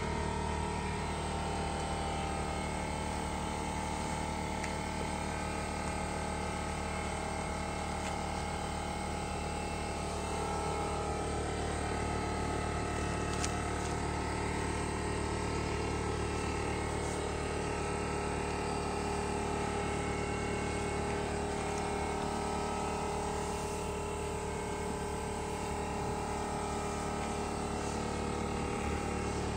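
Steady motor or engine drone with a low hum, unchanging in pitch and level throughout.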